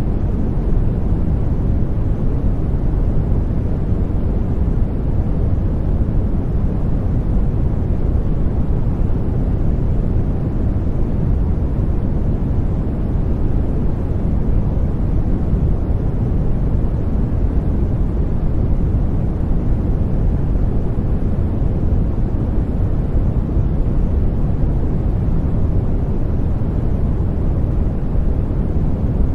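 Continuous white noise for baby sleep: a steady, unchanging deep rush, heavy in the bass and soft in the treble, with no breaks or changes in level.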